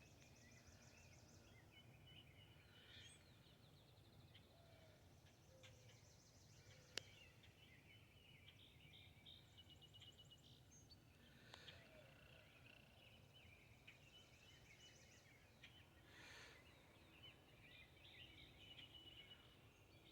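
Faint birdsong from several small birds, chirping and trilling throughout, over a low steady background hum. A single sharp click comes about seven seconds in.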